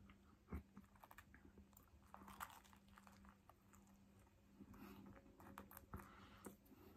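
Faint close-up chewing and biting of a fish finger sandwich, with scattered soft mouth clicks.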